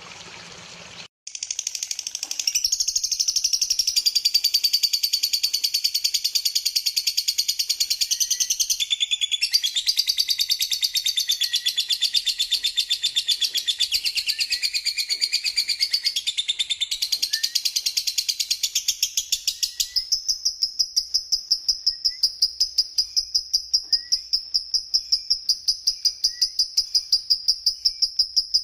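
A small songbird's fast, continuous twittering song of high chirps and trills, starting about a second in. Around two-thirds of the way through it changes to a rapid, steady trill of one repeated high note, about five a second.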